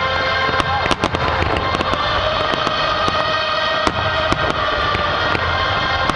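Fireworks display: a quick, irregular run of sharp bangs and crackles, with a steady held tone running behind them.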